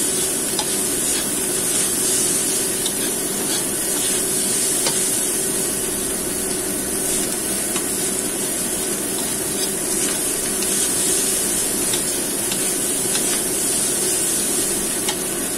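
Fried rice sizzling in a hot wok while a metal spatula stirs and scrapes it, a steady frying hiss with scattered light clicks of the spatula against the pan.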